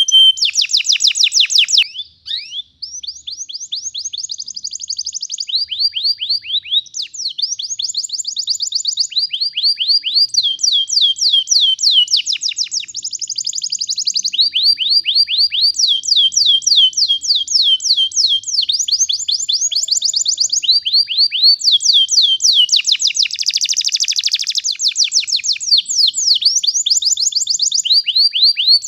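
Domestic canary singing a long rolling song: fast trills of repeated down-slurred notes, switching to a new phrase every second or two, with a brief break about two seconds in.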